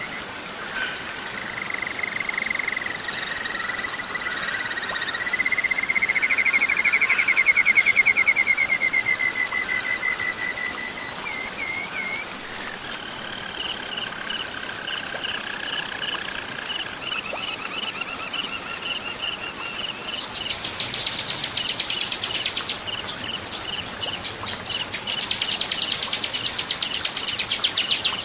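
Songbirds singing in a layered bird-training mix of warbler and bar-winged prinia (ciblek) songs: rippling trills and a thin high whistle, then a quick repeated chipping phrase. In the last third come two fast, high buzzy trills, the loudest part, over a steady background hiss.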